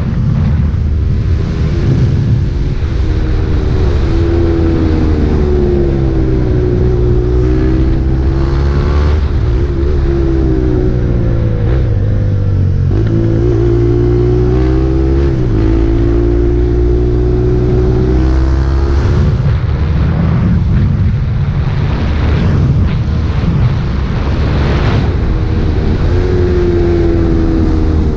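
2022 KTM RC 390's single-cylinder engine through an Akrapovic exhaust while riding, revs rising and falling again and again, with a few sudden drops in pitch as gears change.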